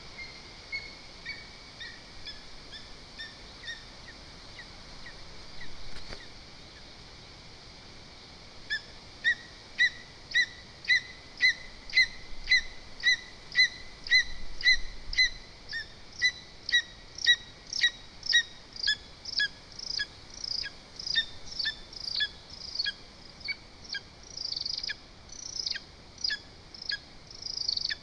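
Lesser spotted eagle calling at the nest: a long series of short, high, slightly falling yelps at about two a second, starting about nine seconds in after a few faint notes, and growing louder and harsher toward the end.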